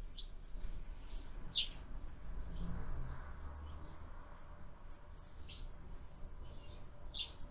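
Sparrows chirping at a feeder: short, high chirps every second or so, the loudest about a second and a half in, again past the middle, and near the end.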